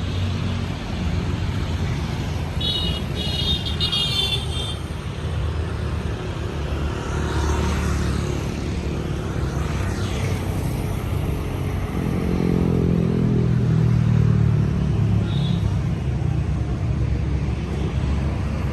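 50 kVA generator set with a Tata 709 four-cylinder engine running steadily with a low rumble. There is a brief high-pitched tone about three seconds in, and the hum grows louder and more pitched about two-thirds of the way through.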